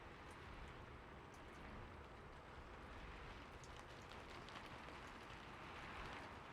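Faint, steady rain with scattered small drop ticks, a soft rain ambience.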